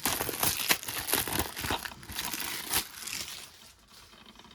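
Plastic shrink-wrap crinkling and crackling as it is pulled off a sealed DVD case and crumpled, dying down after about three seconds.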